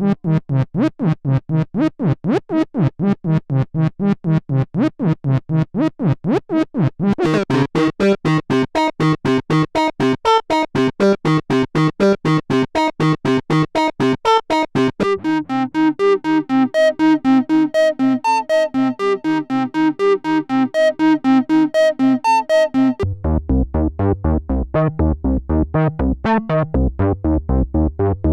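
Roland SE-02 analog monosynth playing a fast sequenced pattern of short, repeated notes, stepping through several factory preset patches. The tone changes about every eight seconds, turning brighter about seven seconds in and to a deep bass sound near the end.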